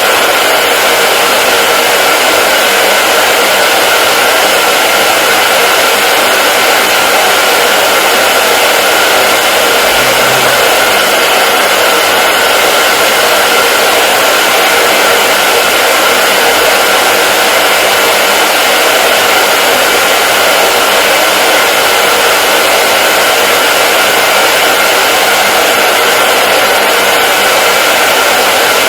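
Hair dryer running continuously at a steady speed: a loud, even whooshing rush of fan and blowing air with a faint steady whine and no change in pitch.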